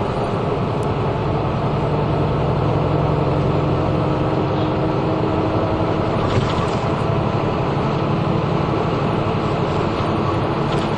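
Route bus under way, heard from inside the cabin: a steady low engine drone mixed with road noise, and a faint tick or two.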